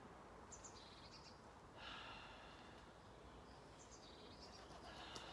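Near silence: faint outdoor garden ambience with a few brief, distant bird chirps.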